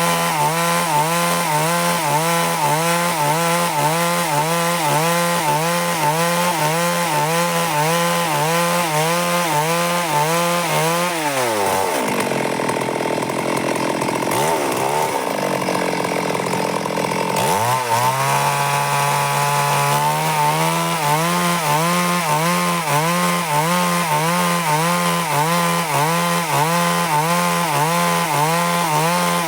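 Stihl MS 382 two-stroke chainsaw running at high revs while cutting through wood, its pitch wavering rhythmically. About eleven seconds in, the revs fall away for several seconds, then climb back to full speed.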